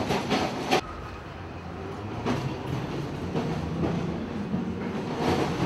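Tram running along its rails: a steady rumble with a few wheel knocks.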